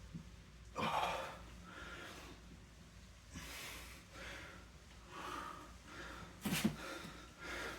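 A man breathing hard through a set of single-leg deadlifts: short, forceful breaths in and out, roughly one a second. The strongest comes about six and a half seconds in.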